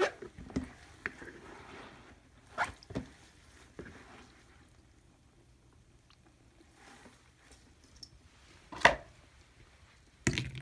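Wet clothes being squeezed and handled around a small plastic washing-machine tub: scattered soft squishes and short knocks, a quiet stretch in the middle, and one sharp knock about nine seconds in.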